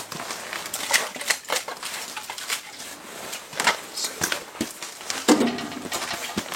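Irregular clicks and knocks of kindling and firewood being handled, with a louder clank about five seconds in.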